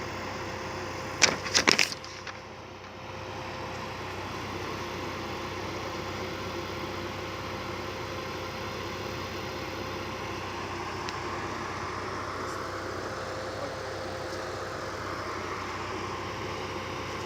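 Vehicle engine idling steadily, with a quick cluster of sharp cracks or knocks about a second and a half in.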